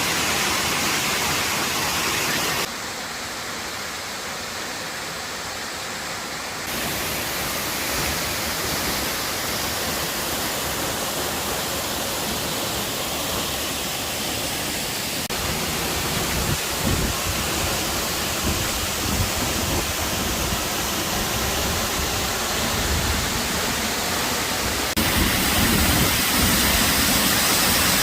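Waterfall: a steady rush of falling water that jumps in level and tone several times, as between shots taken at different distances. An uneven low rumble comes in about halfway.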